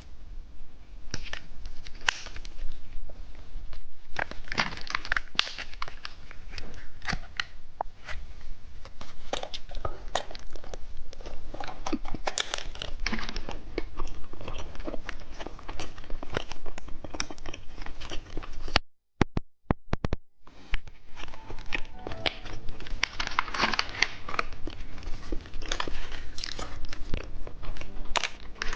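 Plastic snack wrapper of a cheese stick crinkling and being torn open close to the microphone, a dense run of irregular crackles. The sound drops out briefly about two-thirds of the way through.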